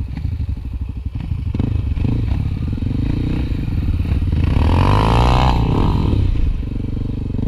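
Honda XR250 Tornado trail motorcycle engine running, revving up about halfway through and settling back down a second or so later.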